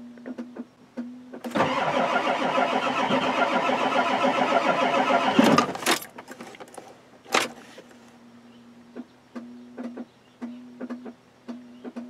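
The starter of a 1993 Ford F-250's 7.3L IDI diesel cranking the engine with a pulsing rhythm for about four seconds. The engine does not catch, and the cranking stops abruptly. The owner blames glow plugs that aren't working. A couple of sharp clicks follow.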